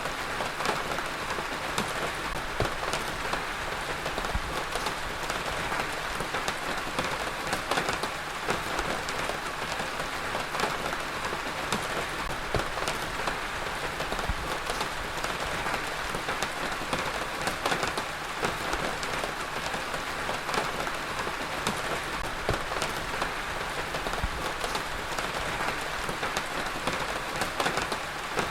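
Heavy rain falling steadily on a surface, a dense, even hiss with many close drop impacts and no let-up.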